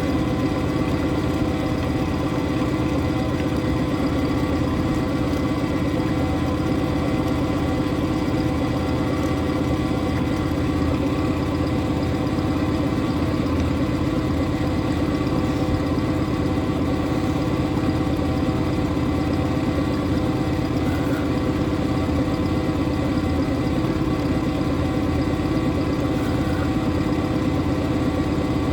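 Boat engine running steadily at low revs, a constant even drone.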